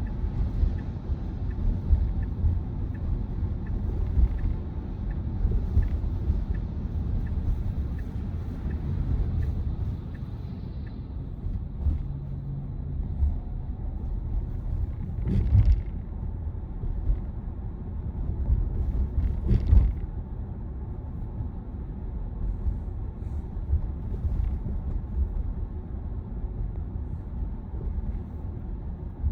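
Road and tyre rumble inside the cabin of a Tesla Model Y driving on wet roads in the rain. Faint regular ticking runs through the first ten seconds or so, and two short louder swishes come about four seconds apart midway.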